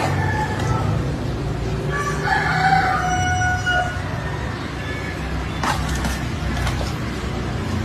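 An animal's drawn-out call, held for about a second and a half, over a steady low rumble of traffic.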